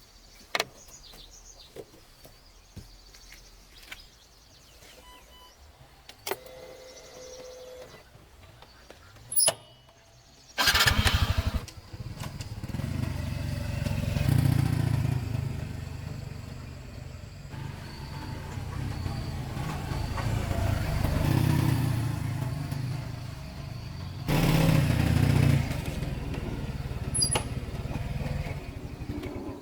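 A small engine starts with a sudden burst about a third of the way in, then keeps running, its loudness rising and falling; a few clicks and knocks come before it.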